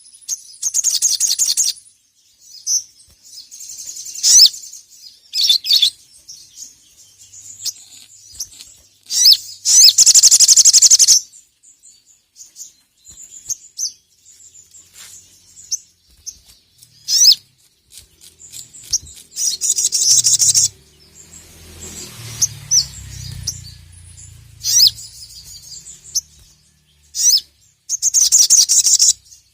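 Crimson sunbird (sogon) singing: loud, very high, rapid trills, each a second or two long, repeated every few seconds, with short sharp chips between them.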